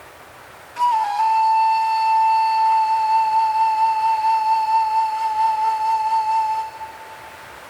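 A single long flute note with a slight vibrato, entering about a second in with a short dip in pitch and held until it fades near the end, over a steady hiss of desert wind.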